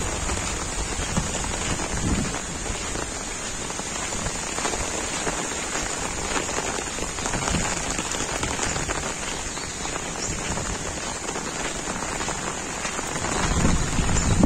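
Heavy monsoon rain falling steadily, a dense even hiss of drops. Brief low rumbles come about two seconds in and again near the end.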